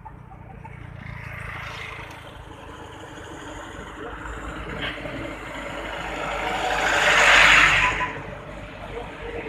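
Motor vehicle traffic on the road. The noise builds steadily to a loud peak about seven seconds in, then drops away quickly, like a vehicle passing close by.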